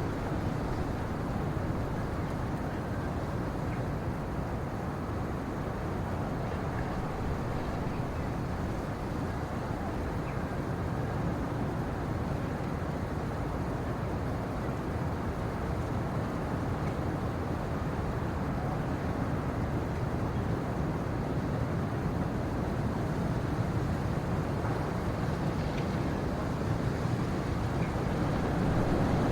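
Steady low rumbling ambient noise with no distinct events, growing slightly louder near the end.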